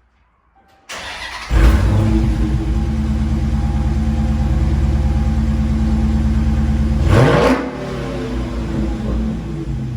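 Dodge Challenger 392 Hemi V8 firing up about a second in with a loud flare, then idling steadily through the exhaust. About three seconds before the end it gives one quick rev that rises and falls, then settles to a quieter idle.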